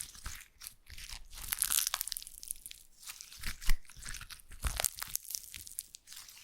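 Slime being squeezed and stretched by hand close to the microphone: irregular crackling and small pops, with one louder pop a little past the middle.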